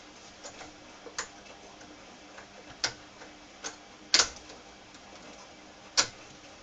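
Irregular sharp clicks and knocks of tools and small parts being handled during work on a minibike clutch, the loudest a double knock about four seconds in, over a faint steady hum.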